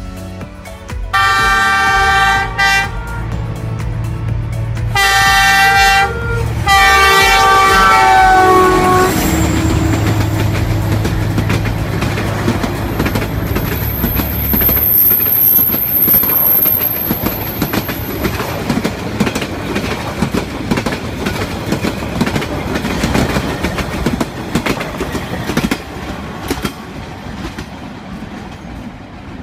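Train horn sounding three times, the third blast dropping in pitch as it ends. It is followed by the steady rumble and clatter of a passing train, which fades away near the end.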